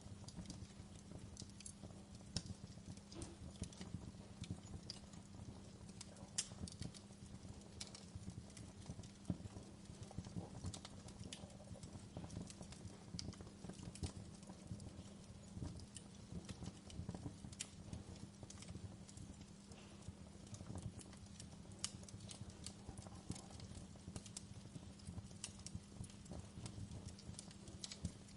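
Wood fire crackling: irregular sharp pops and snaps from the burning logs over a low, steady rumble.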